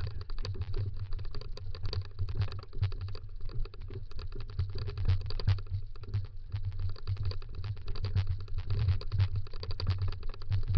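Dog scooter rolling fast over a rough dirt trail: a dense, irregular rattle and crunch of clicks over a low, pulsing rumble.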